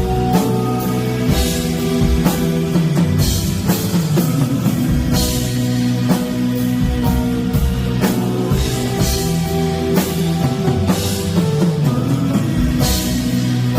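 Rock band music: a drum kit with cymbal crashes every few seconds over sustained guitar notes.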